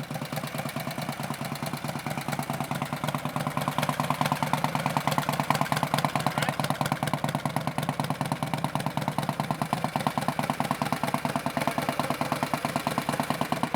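1962 Harley-Davidson Panhead V-twin engine running steadily with no air cleaner on its Mikuni carburetor, each firing pulse distinct. It grows a little louder about four seconds in.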